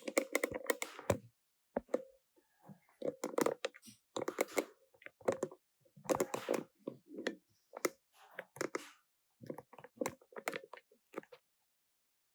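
Irregular clicking and tapping, coming in short clusters with brief pauses between them.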